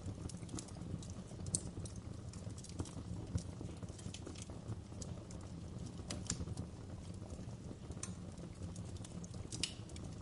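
Wood fire crackling in a fireplace: irregular sharp pops and snaps over a low steady rumble of the flames, with louder pops about one and a half seconds in, about six seconds in and near the end.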